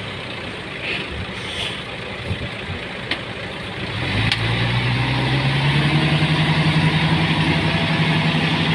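Diesel dump truck engine, quieter at first, then revving up about four seconds in and pulling hard under load as the truck reverses on slippery, rain-soaked soil. A couple of light clicks come just before it revs.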